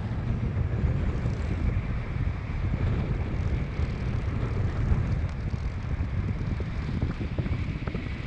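Strong wind buffeting the microphone: a steady, gusty low rush of air.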